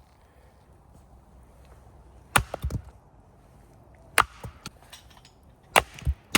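Chopping with a blade: three hard strikes about a second and a half apart, each followed by a few lighter knocks.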